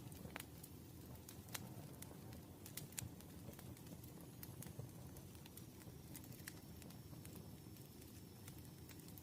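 Wood fire crackling: irregular sharp pops and snaps over a soft, steady low rumble of the flames. A faint, thin high whistle comes in about halfway.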